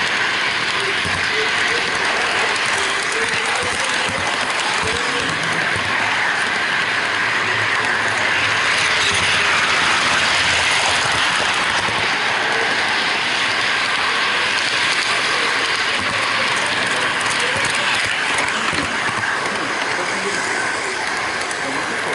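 HO-scale model freight train running, heard up close from a camera riding on one of its container wagons: a steady rattle of small metal wheels rolling on the track, with many small clicks.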